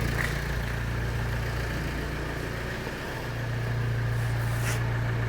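Kia Sorento 2.2 CRDi D4HB four-cylinder common-rail diesel idling on test. Its steady hum dips a little in the first few seconds, then evens out again about three seconds in.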